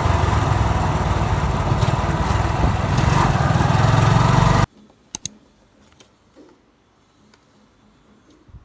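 A motor running loudly and steadily, with a strong low rumble, cutting off abruptly about four and a half seconds in; afterwards a few faint clicks.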